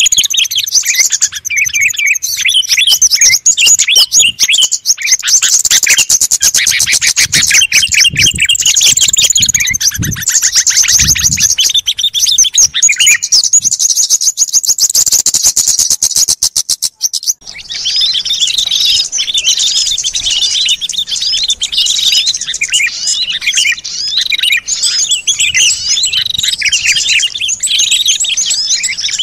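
Bird-lure recording of many small songbirds calling together, a dense mass of high chirps and twitters. Through the middle a very rapid rattling trill runs under the chirps and stops abruptly about 17 seconds in, where the chorus changes and carries on.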